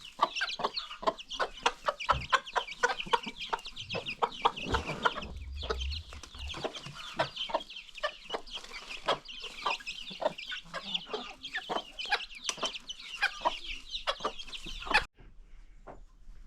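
A flock of chickens clucking, with many short sharp calls over a constant high chirping. The sound breaks off abruptly near the end and continues much quieter.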